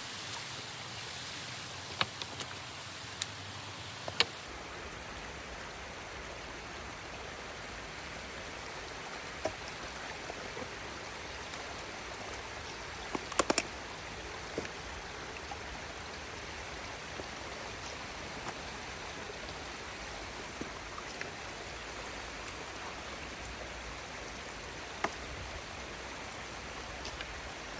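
Water running steadily through a beaver dam being opened up, a constant rush with a few short sharp clicks scattered through it.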